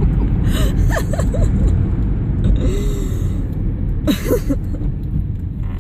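Steady low rumble of a moving car heard from inside the cabin, with a few short hissy bursts and brief vocal squeaks.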